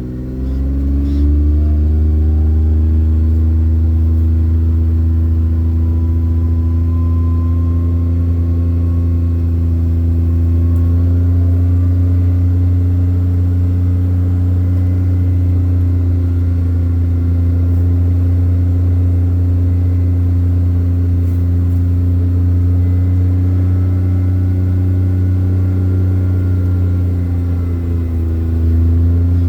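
An engine running under steady load, its pitch climbing over the first couple of seconds and then holding level, with a brief dip and recovery near the end.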